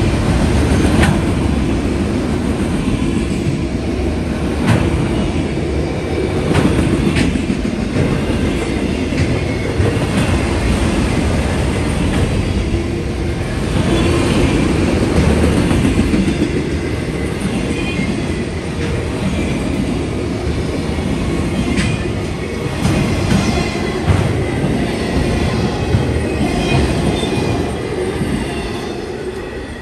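Freight train of autorack cars rolling past: a steady rumble of steel wheels on rail with clickety-clack over the joints, scattered clanks and some wheel squeal, easing off slightly near the end.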